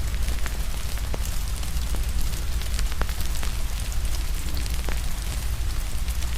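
Steady rain hiss with a fire crackling over it, giving sharp irregular pops about once a second, above a low steady rumble.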